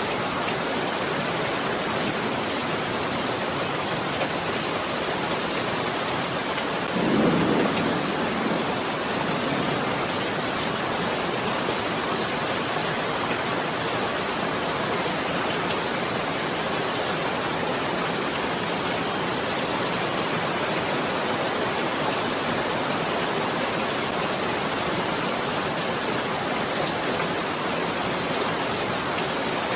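Steady, even rain. About seven seconds in, a brief low rumble swells and fades over a couple of seconds.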